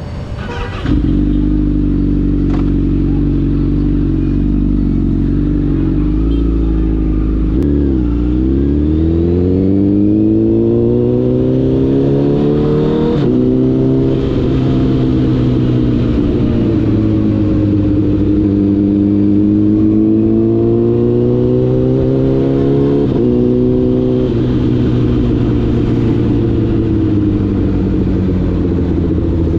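Honda CBR1000RR inline-four engine running under way, loud and close, jumping up in level about a second in. Its pitch dips and then climbs steadily for several seconds under acceleration, steps at gear changes, holds steady, and climbs again with another shift near the end.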